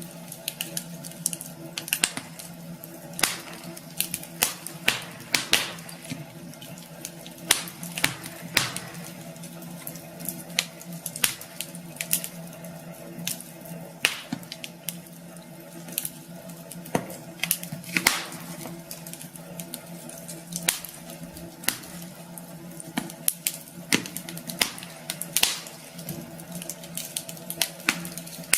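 Wood fire burning in a fireplace, crackling with frequent irregular sharp pops and snaps over a steady soft hiss and a faint low hum.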